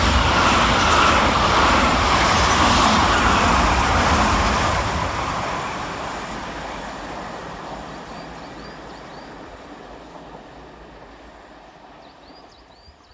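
Gatwick Express train of two Class 387 electric multiple units running along the main line, loud at first and then fading steadily over about ten seconds as it moves away.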